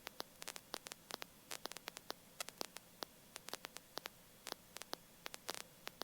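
Faint crackling static on an aircraft radio and intercom audio line between transmissions: irregular sharp clicks, several a second, over a low hiss with a faint steady hum.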